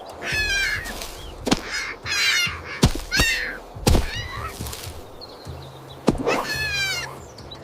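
A series of short, high, quavering animal cries, five or so, with sharp clicks between them.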